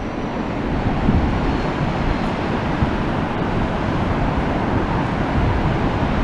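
Wind buffeting the microphone: a steady, rumbling rush of noise, heaviest in the low end and fluttering unevenly.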